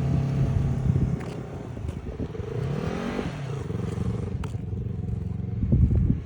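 Yamaha R3's parallel-twin engine running at low speed under a learner rider, revving up and easing off once about three seconds in. Wind buffets the microphone near the end.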